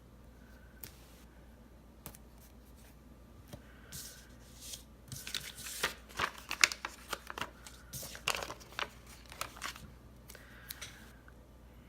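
Sticker sheets being handled and stickers peeled off: a run of crinkling, tearing rustles about four seconds in, lasting some six seconds.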